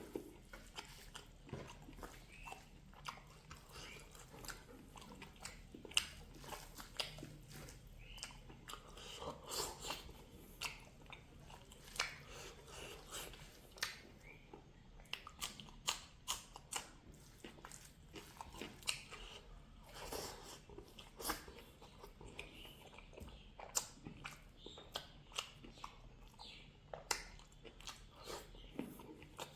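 Close-up chewing and biting sounds of a person eating pork with mustard greens, with many short, irregular crunching clicks.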